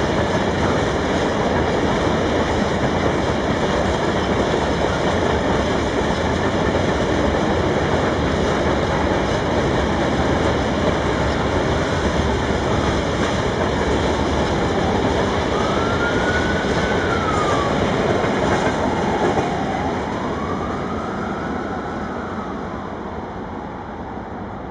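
Freight train wagons rolling past on the track, a dense steady rumble that begins to fade about 20 seconds in as the train draws away. Two brief high rising-and-falling squeals come through about two-thirds of the way in.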